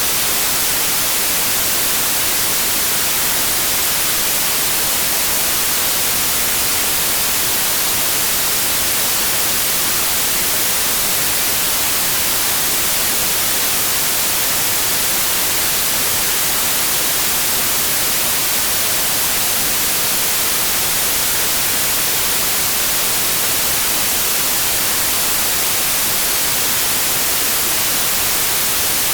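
Steady white noise: an even, unbroken hiss, heaviest in the high end, with no tones or changes.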